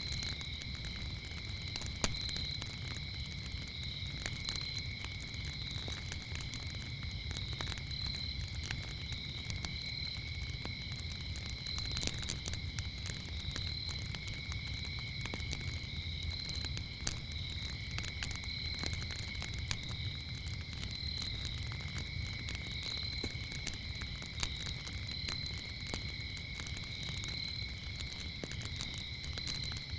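Wood fire crackling with frequent sharp pops and a low rumble of flames, over the continuous chirping of crickets at two steady high pitches.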